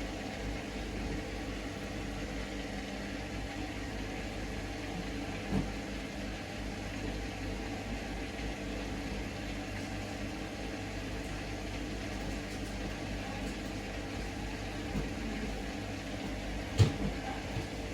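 Hoover Link washing machine running steadily in its intermediate spin phase, a low mechanical hum. A few light knocks, and a sharp click near the end.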